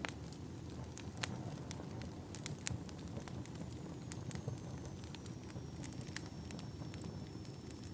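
Wood fire burning in a fireplace: a steady low rumble of flames with sharp, irregular crackles and pops, and a faint high whistle that slides down a little and then holds from about halfway through.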